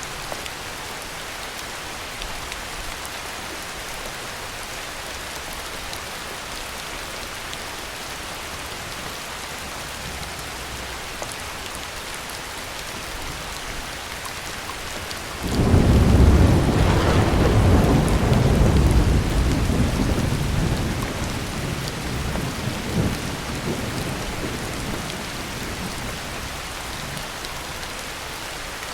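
Steady heavy rain, with a sudden loud clap of thunder about halfway through that rumbles on for several seconds and slowly fades back into the rain.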